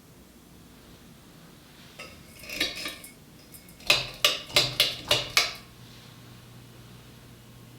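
Metal pull chain of a vintage Hunter (Robbins & Myers) ceiling fan rattling and clicking as it is tugged. There is a short burst of clinks about two seconds in, then six sharp clicks at about four a second. A low steady motor hum starts with the first of the six clicks, as the fan is switched on.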